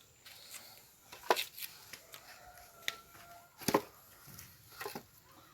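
A few separate sharp knocks and clacks of dry firewood being handled and stacked, the loudest about a second in and again past the middle.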